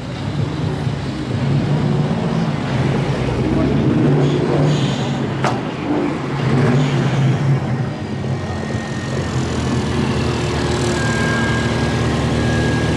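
A car engine running steadily, with people talking in the background and a single sharp click about five and a half seconds in.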